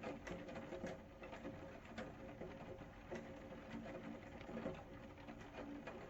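Rain falling, with raindrops landing as irregular taps and drips over a soft hiss, over a faint steady hum.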